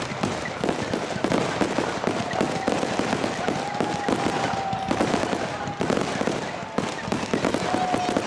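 Fireworks display: a dense run of shell bursts and crackling bangs, with a few drawn-out whistling tones over them.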